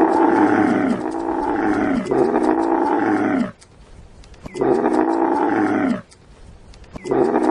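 Camel calling: a run of loud, long calls, each falling in pitch at its end, the first running into about three and a half seconds, then another and the start of a third after short pauses.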